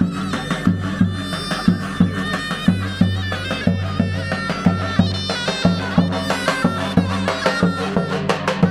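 Turkish folk music: a shrill, reedy wind melody over a steady low drone, with drum strokes about three times a second.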